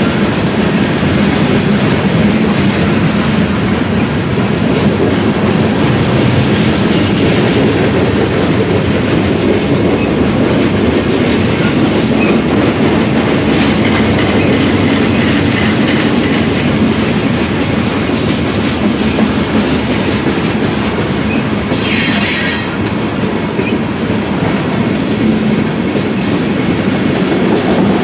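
A long freight train's cars rolling past close by: a steady rumble with the clickety-clack of wheels over rail joints and faint high wheel squeals. There is a brief high hiss about three-quarters of the way through.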